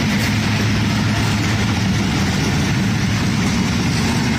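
Diesel-electric locomotive engine idling steadily at the head of a stopped passenger train, a constant low hum.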